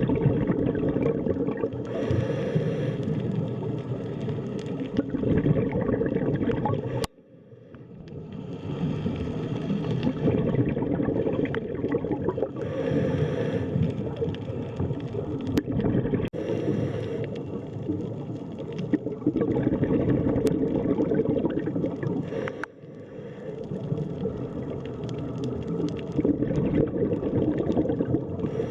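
Underwater ambience: a dense, low bubbling and gurgling rumble of water, with brighter surges every few seconds. It cuts out suddenly about seven seconds in and again near twenty-three seconds, each time fading back up.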